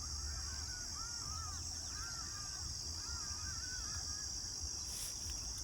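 Distant birds calling in short series of arched, rising-and-falling notes, three bouts, over a steady high insect drone.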